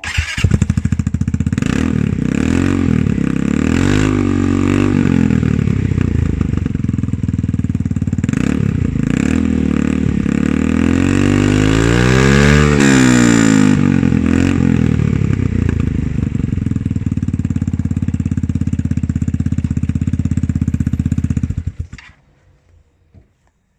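Royal Alloy GP300 scooter's single-cylinder engine running through a Scorpion exhaust with its baffle removed: it starts up, idles and is revved several times, with one longer rev rising and falling around the middle, then is switched off about 22 seconds in.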